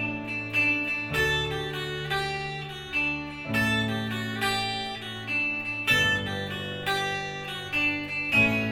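Guitar music with plucked chords, a new chord struck about every two and a half seconds.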